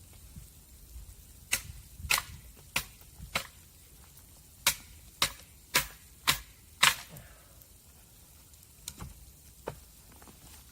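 A run of sharp knocks, about two a second: four, a brief pause, five more, then two spaced knocks near the end.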